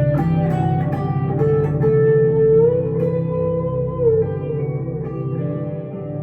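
Electric guitar lead, a 1962 Gibson Les Paul Custom through a Two-Rock Emerald Pro tube amp with delay and reverb, over a steady low accompaniment. About two seconds in, a note is bent up and held for around two seconds before the next notes are picked.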